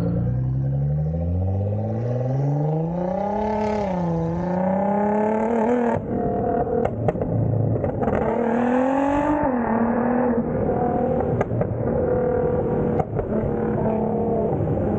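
Straight-piped Nissan GT-R's twin-turbo V6 running on a custom exhaust, its revs climbing and dropping twice before holding steady. A few sharp cracks sound about halfway through and again near the end.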